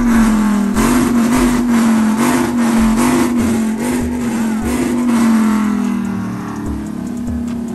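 A show truck's engine revved hard over and over, its pitch pulsing up and down about once every three-quarters of a second, then easing off and fading near the end.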